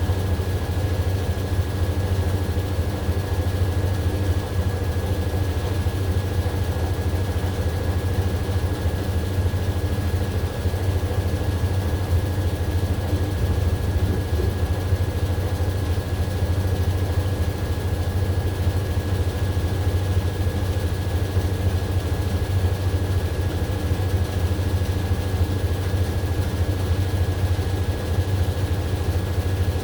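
AQUA AQW-DX12M front-loading drum washing machine running steadily at speed, typical of its spin phase: a constant deep hum with a thin, steady high whine above it.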